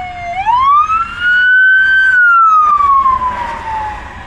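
A siren wailing: its pitch dips, rises for about two seconds, then falls slowly again.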